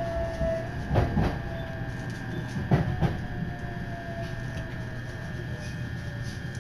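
Train running along the track, heard from inside the carriage: a steady low rumble with two pairs of wheel clicks over rail joints, about a second and about three seconds in. A faint whine runs underneath and slowly falls in pitch.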